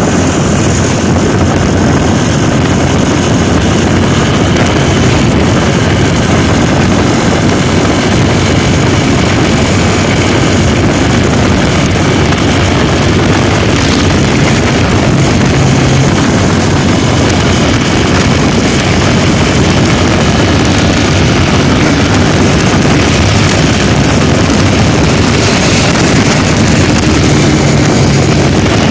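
Loud, steady running noise of a motorcycle and a locomotive moving at speed side by side.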